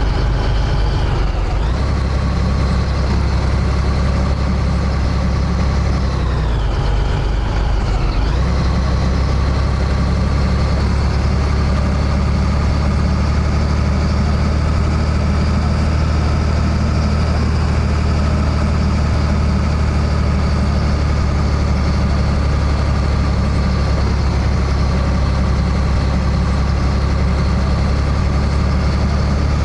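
Scania 113H truck's 11-litre six-cylinder diesel engine running steadily, its pitch dipping and recovering briefly about a second in and again around seven seconds in.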